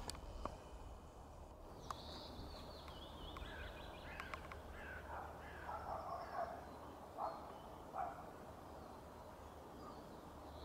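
Birds calling: a high, thin call about two seconds in, then a run of lower calls with two louder notes near the end, over a steady low rumble and a few faint clicks.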